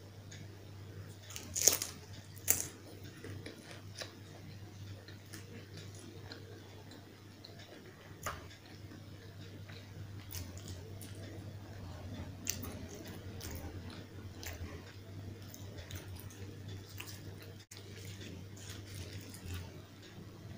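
Close-miked eating of puri with potato curry: two sharp, loud bites about two seconds in, then softer wet chewing and mouth clicks.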